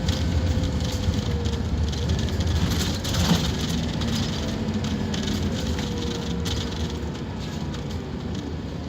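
Scania K230UB Omnilink single-deck bus running under way, a deep diesel rumble with a faint whine over it. About three seconds in there is a brief hiss and a short dip in level.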